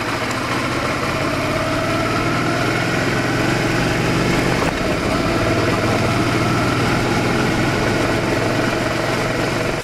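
Motorcycle engine running steadily under way, its pitch rising and falling slightly, cutting off suddenly at the end.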